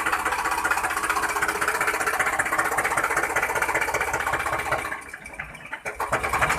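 Small motor and gears of a homemade remote-control model tractor running steadily with a fast, even ticking whir, dropping off about five seconds in, then a few short bursts before it stops.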